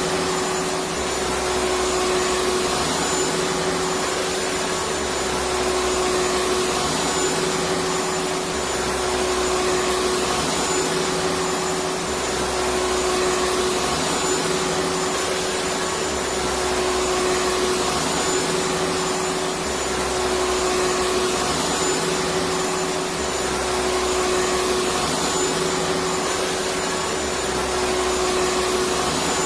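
Electric vacuum cleaner running steadily, a whooshing rush with a steady motor whine, played on as continuous white noise for sleep.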